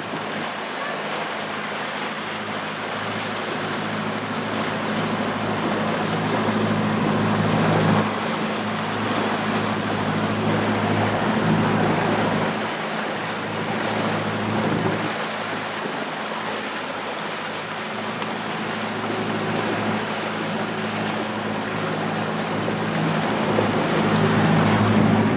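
Boat engine running steadily, with the rush of water and wind.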